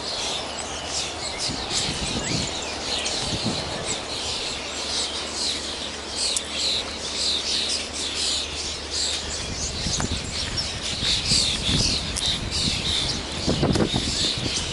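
Songbirds chirping and singing, many short calls overlapping, over a low rumble that grows stronger near the end.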